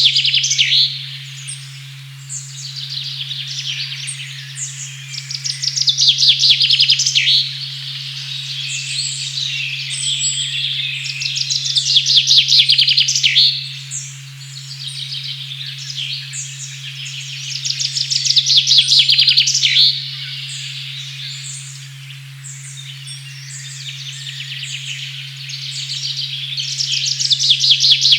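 A steady 136.1 Hz sine tone hums under a forest recording of birds singing, with loud, rapid trilling phrases about every six seconds amid other chirps.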